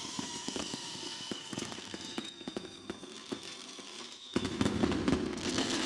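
Aerial fireworks going off: a run of sharp, scattered crackling pops, then about four seconds in a louder, denser burst of bangs and crackle.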